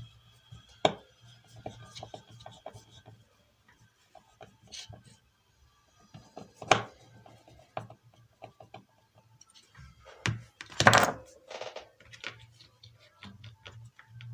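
Tools and small parts handled on a workbench during a circuit-board repair: scattered clicks and knocks, with a louder clatter about eleven seconds in.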